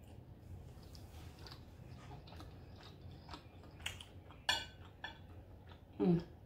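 A person quietly chewing a mouthful of noodles, with scattered small wet mouth clicks. A brief louder mouth sound comes about four and a half seconds in, and a short low hum near the end.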